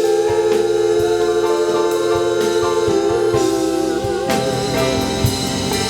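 Gospel worship singing with a band: a voice holds one long note for about three seconds, which then wavers with vibrato, over drums.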